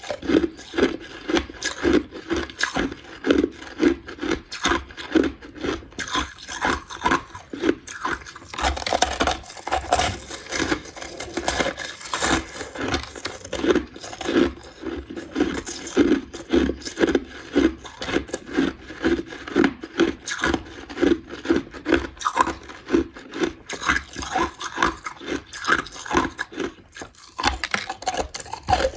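A person chewing mouthfuls of crushed ice close to the microphone: crunching and grinding in a steady chewing rhythm, roughly two crunches a second.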